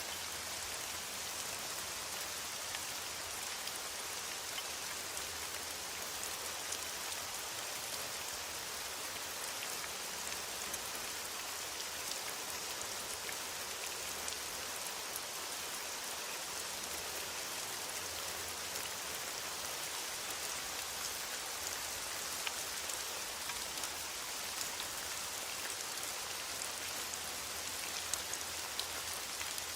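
Steady rain falling in a forest, an even hiss with scattered individual drops ticking on surfaces.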